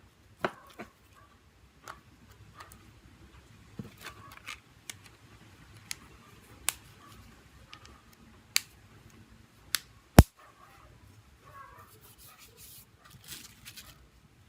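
Scattered sharp clicks and taps from a Samsung Galaxy J2 Prime smartphone being handled during repair, coming irregularly, with the loudest snap about ten seconds in and softer rustling near the end.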